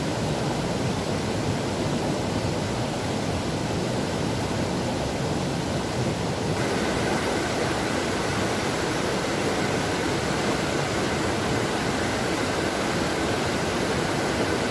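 Waterfall rushing: a steady, even wash of falling water with no breaks, shifting slightly in tone about halfway through.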